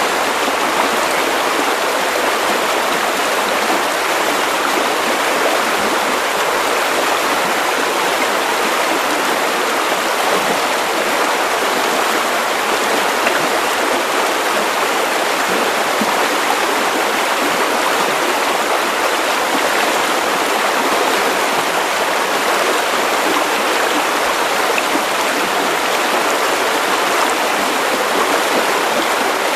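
Steady white noise for sleep: an even, unchanging hiss with no rhythm or pitch, weak in the deep bass.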